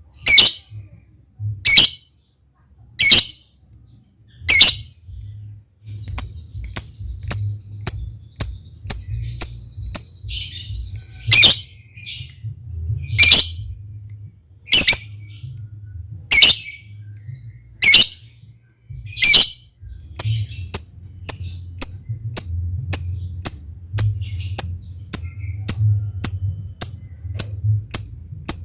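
Lovebird calling: loud harsh shrieks about every second and a half, alternating with runs of short, rapid ticking calls about three a second, over a faint low steady hum.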